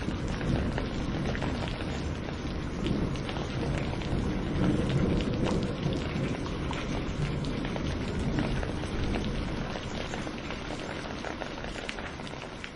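Thunderstorm: steady rain with sharp clicks of individual drops striking close by, over a low thunder rumble that swells about halfway through. The whole sound slowly grows quieter near the end.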